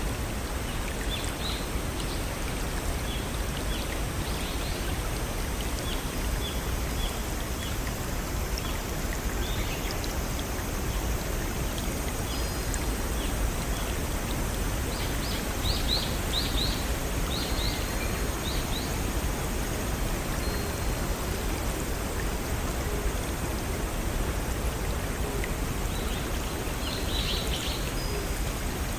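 Small waterfall and brook running steadily, with birds chirping in short high calls, a busier run of chirps about halfway through and another near the end.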